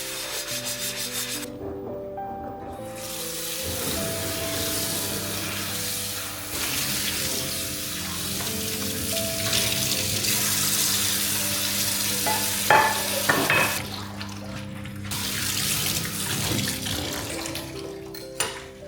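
Water running from a kitchen tap into the sink, starting about four seconds in, with a few light clinks about two-thirds of the way through. Soft background music plays throughout.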